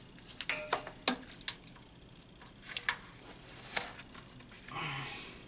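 Scattered small metallic clicks and clinks, a few with a brief ring, as a strong coil retaining spring is stretched and hooked onto a tractor clutch throwout bearing. A short breathy sound comes near the end.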